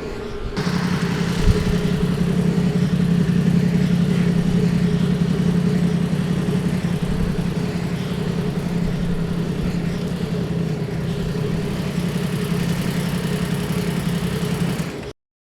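Yamaha MT-10's crossplane inline-four engine running at a steady, unchanging pitch. The sound cuts off abruptly just before the end.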